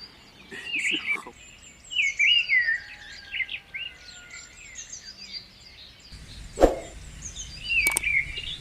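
Birds chirping and calling repeatedly, with short twittering notes. About two-thirds of the way in there is one sharp, loud knock, and a smaller one near the end.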